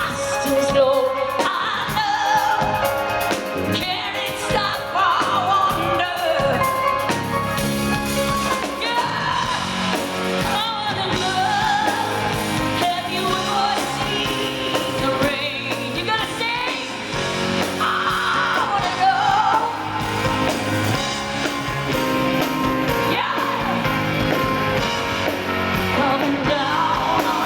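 Live rock band playing a mid-tempo rock song with a woman singing the lead vocal, recorded from the audience in an arena.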